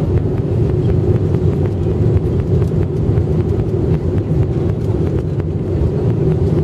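Aircraft cabin noise: the engines and airflow give a loud, steady drone with a low hum that holds level throughout.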